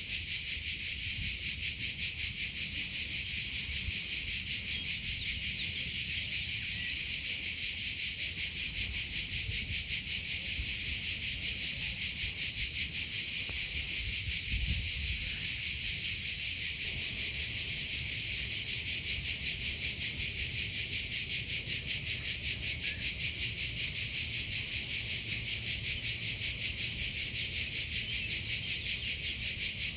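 Crickets chirping continuously in a steady, fast pulsing trill, with faint low background rumble.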